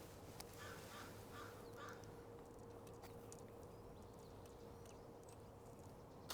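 A bird calling faintly: four short notes in quick succession, starting about half a second in, over a faint steady hum.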